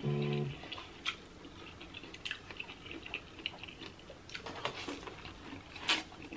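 Close-miked chewing of corn on the cob: soft wet mouth clicks and lip smacks, with a short hummed "mmm" at the start and a bite into the cob near the end.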